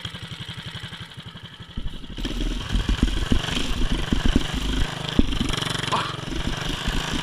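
Predator 212cc single-cylinder four-stroke mini bike engine ticking over at a low, even idle, then opened up about two seconds in and running loud and rough under throttle.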